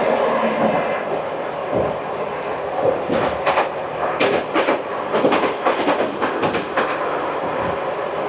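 Passenger train running on the rails: a steady rumble with a run of rapid clicks and clacks from the wheels about a third of the way in.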